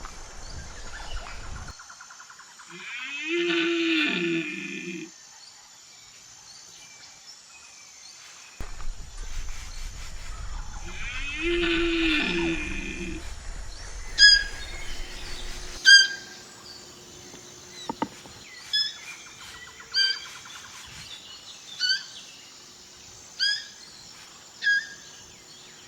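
Two long, drawn-out animal calls about eight seconds apart, then a run of short, sharp bird chirps, one every second or two.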